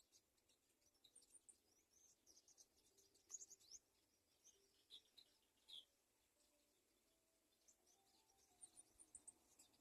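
Faint bird chirps: many short, high-pitched chirps and squeaks in quick clusters, thickest from about one to four seconds in and again near the end.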